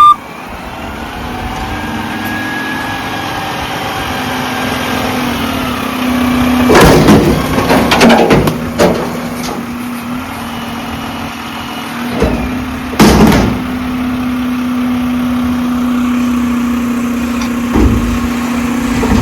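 Garbage truck running with a steady hum. Loud clattering bangs come about seven to nine seconds in, again around thirteen seconds, and a lighter one near the end.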